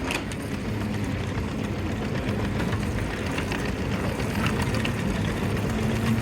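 A vehicle running with a steady low rumble and hum.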